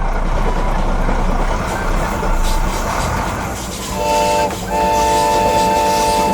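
Steady vehicle running noise, then a multi-tone horn blowing twice: a short blast about four seconds in and a longer one right after it.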